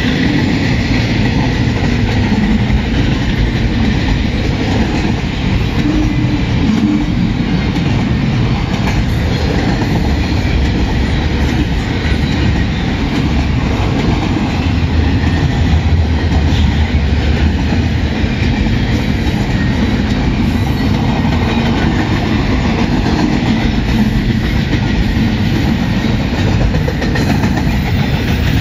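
Double-stack intermodal freight train's container well cars rolling past: a steady, loud rumble of steel wheels on the rails with a continuous clatter.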